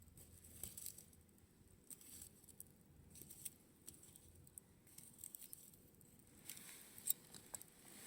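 Campfire crackling faintly, with scattered small pops from the burning wood and one sharper pop about seven seconds in.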